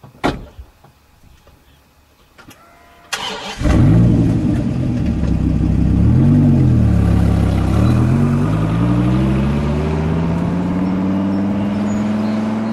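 A car engine cranks and catches about three seconds in, then runs with a dip and rise in pitch before climbing steadily as the car accelerates away. Two short clicks come before the start.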